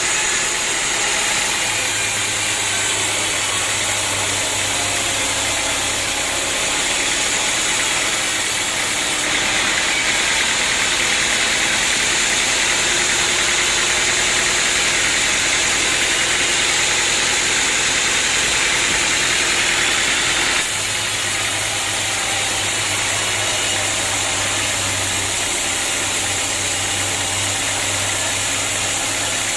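Sawmill machinery running steadily and loudly. The sound shifts abruptly about a third of the way in and again about two-thirds through.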